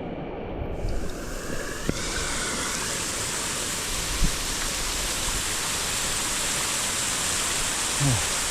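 Waterfall in a mountain gorge pouring down with a steady rush of water, growing fuller and brighter about two seconds in. A few brief knocks sound through it.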